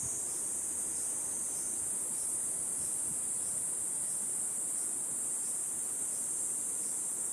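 Cicadas shrilling in a steady, unbroken high sizzle, over the faint rush of flowing river water.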